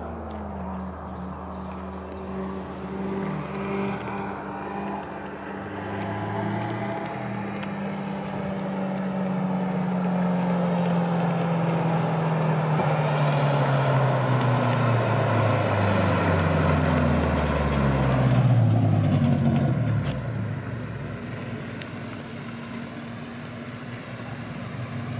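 Honda Civic's B16 four-cylinder engine running through an aftermarket exhaust as the car drives, its note sliding slowly down in pitch. It grows louder through the middle, then eases off near the end.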